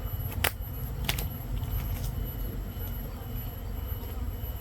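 A few sharp knocks: a loud one just under half a second in, another about a second in and a fainter one near two seconds, over a steady low rumble.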